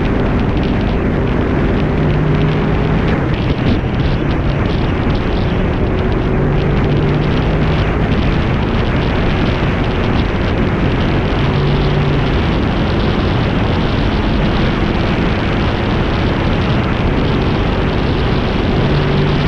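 Heavy wind rush on a motorcycle-mounted action camera, with the steady drone of a Honda VFR800 VTEC's V4 engine underneath as the bike cruises along an open road.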